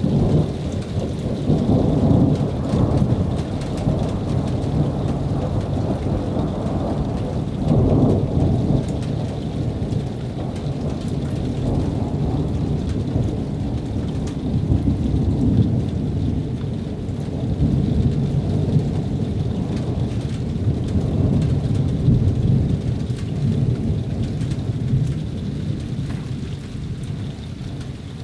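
Thunder rumbling on and on from an approaching thunderstorm: a continuous low rumble that swells in waves, loudest about 2 and 8 seconds in.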